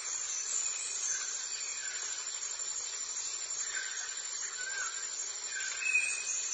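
Forest ambience: a steady high hiss of insects with short whistled bird calls dotted through it.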